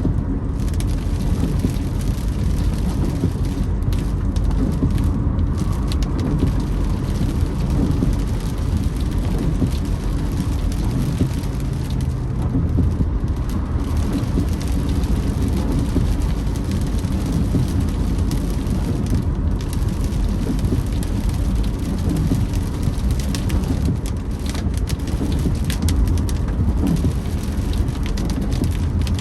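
Rain falling on a moving car, with steady road and tyre noise underneath.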